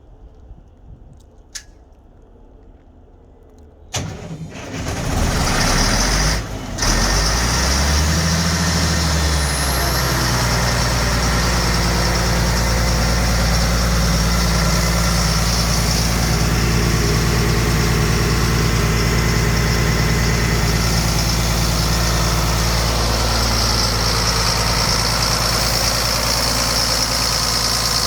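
Sullivan Industries D7500 portable air compressor's engine cranked by its starter about four seconds in. It catches a couple of seconds later and settles into steady running, with a high whine over the engine note.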